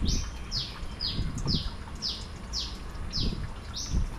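A bird calling over and over: a short high note that slides downward, repeated about twice a second. A few soft low bumps from handling sound beneath it.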